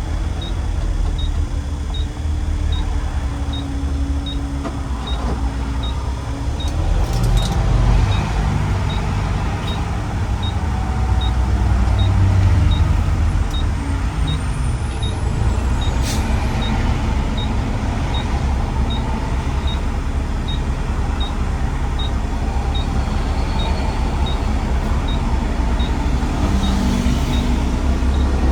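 Road traffic heard while driving: a steady low engine and road rumble, with an engine note that falls and rises in the first several seconds, and a faint regular tick a little more than once a second.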